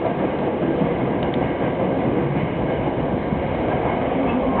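Subway train running through the underground section of the Fukutoshin Line, with a steady noise of wheels on rails and running gear.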